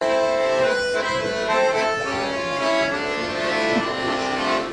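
Accordion playing a melody of held notes, the instrumental introduction before the singing starts.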